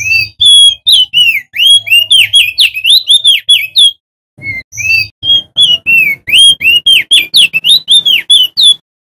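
Male opior jambul (crested white-eye) singing loudly: quick runs of clear whistled notes, each sliding up or down, in two long rapid phrases with a short pause between them.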